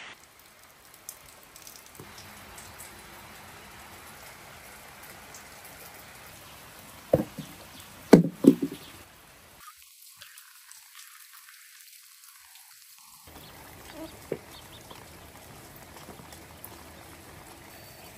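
Steady hiss of rain falling, with a few sharp, loud knocks about seven and eight seconds in. The hiss drops out for a few seconds in the middle.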